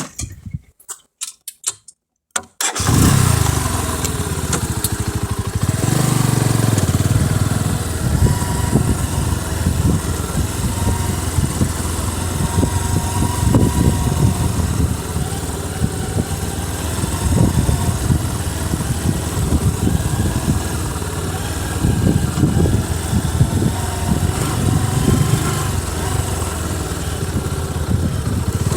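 A few short clicks, then a motorcycle engine starts about three seconds in and keeps running, its loudness rising and falling a little.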